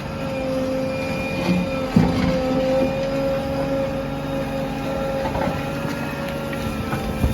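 JCB backhoe loader's diesel engine running under load with a steady whine, with a sharp clank about two seconds in.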